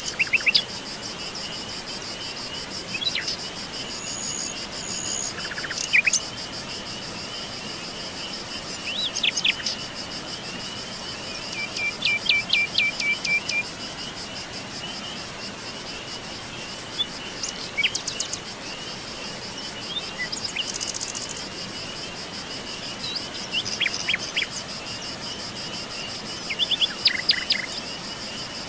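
Songbirds chirping and calling in short phrases every few seconds, including a quick run of repeated notes about twelve seconds in, over a steady high-pitched insect trill.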